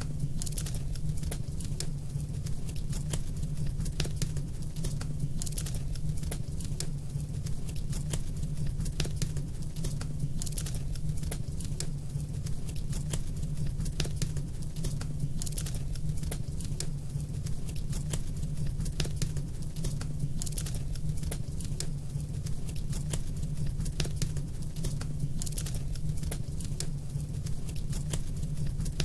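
Wood fire crackling in a fireplace, with irregular small pops and snaps, over a steady low rumble of wind.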